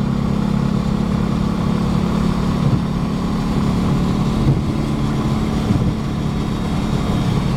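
Air-cooled flat-four engine of a 1966 Porsche 912 running steadily at freeway speed, heard from inside the cabin together with road and wind noise.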